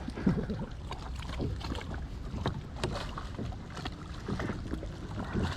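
Scattered light knocks and rustles as a freshly netted small smallmouth bass is handled and wriggles in a kayak, over a steady low rumble of wind on the microphone.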